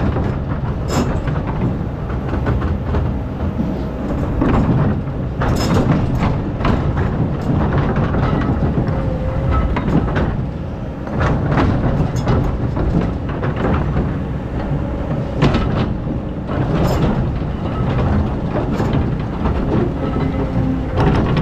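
Excavator digging: its diesel engine runs steadily under a continuous low rumble, while the bucket and steel parts give frequent irregular knocks and clanks against hard-packed sand.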